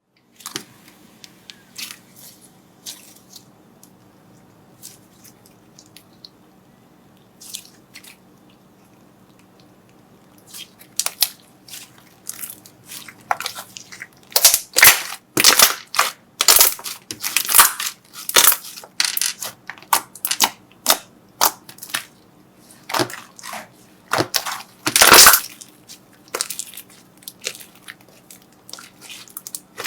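Slime being handled and pressed, giving sharp crackling, crunching clicks: only a few scattered ones at first, then a dense run of loud crackles from about halfway through.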